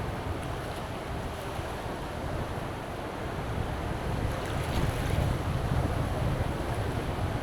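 Wind buffeting the microphone over surf breaking on a beach, a steady rush with a gusty low rumble that strengthens about four seconds in.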